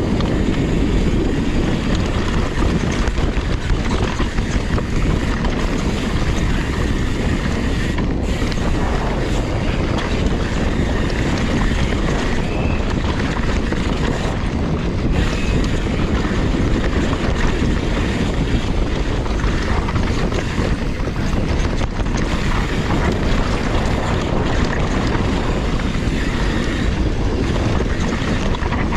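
Steady wind rushing over the microphone of a camera carried on a downhill mountain bike ridden fast down a trail, mixed with the bike's own trail noise.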